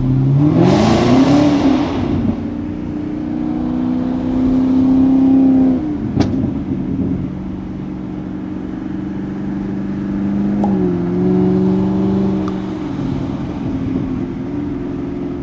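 Chevrolet Camaro ZL1's supercharged V8 revving once, its pitch rising over about a second, then settling into a steady idle. The idle pitch steps down twice, about six seconds in and again near eleven seconds.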